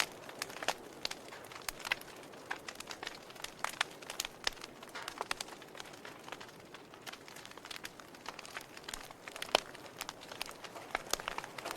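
Wood fire crackling in a fireplace: irregular sharp pops and snaps of varied loudness over a soft hiss, with one louder pop about two-thirds of the way through.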